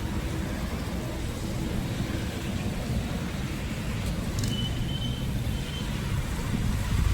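Steady low rumble of road traffic or a car in motion, with a faint brief high tone about four and a half seconds in.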